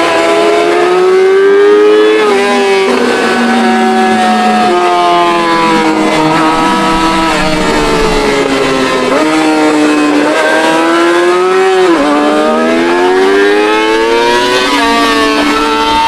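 Yamaha R6's inline-four engine through a straight-pipe exhaust, accelerating hard: the revs climb steadily and drop sharply at each gear change, about half a dozen times.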